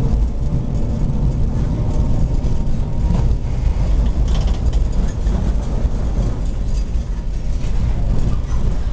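Vintage tram running along the track, heard from on board: a steady low rumble of wheels and running gear, with a few light rattles.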